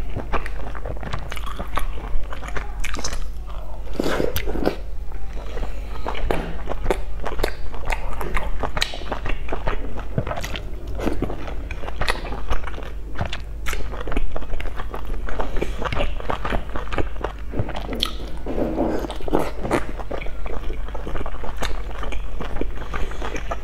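Close-miked chewing and biting of boiled dumplings: wet mouth smacks and irregular sharp clicks, over a steady low hum.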